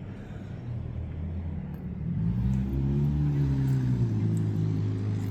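Car engine running with a low rumble; about two seconds in it rises in pitch and gets louder, then about four seconds in it falls back to a steady lower note.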